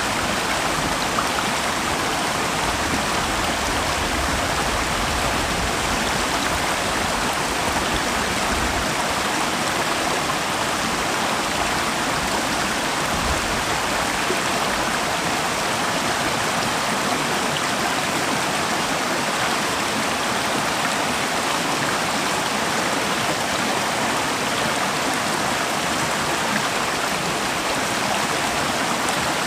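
River water flowing steadily, an even rushing over stones.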